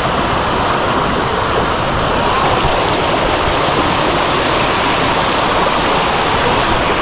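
Rushing water, as of a waterfall or fast stream, a loud steady rush.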